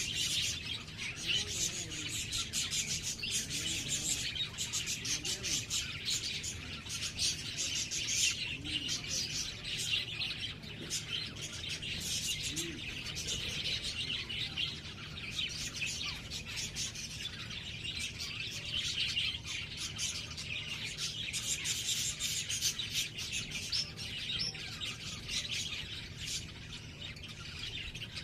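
Many small birds chirping continuously in a dense chorus of high, rapid notes.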